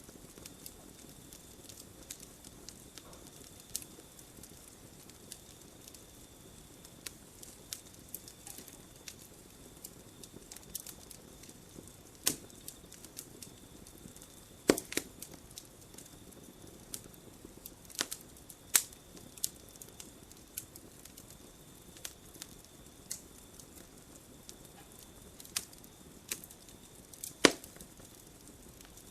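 Campfire of burning wood crackling, with irregular sharp pops over a low hiss; the loudest pops come about halfway through, a few seconds later, and near the end.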